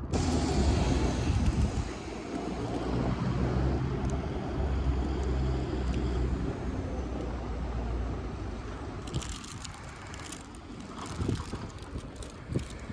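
Electric rail vehicle passing close by: a low steady hum and rumble that fades after about eight seconds, with a few faint clacks near the end.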